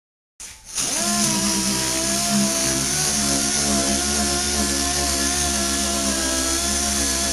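Dual-action (DA) sander starting about half a second in, spinning up within a second, then running steadily on 320-grit paper to sand down the coating: a steady whir over a hiss.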